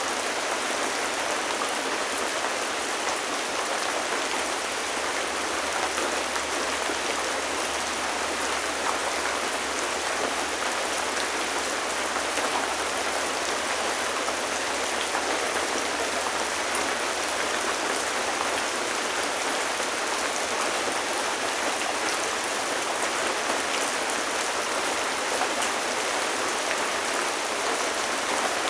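Steady rain falling, a dense even hiss with scattered drops pattering on a surface.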